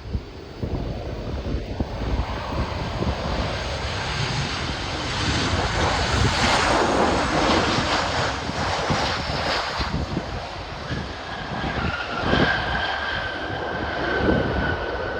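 Jet airliner passing close by a runway. A rushing engine noise builds to its loudest around the middle, then a high whine carries on, drifting slowly lower in pitch.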